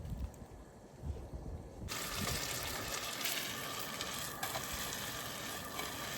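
Potatoes frying in garlic butter in a skillet: a steady sizzle that starts suddenly about two seconds in, with a couple of light clicks.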